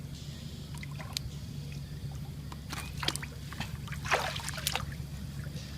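Water sloshing and trickling, with a run of short splashes and knocks about three to five seconds in, over a steady low hum.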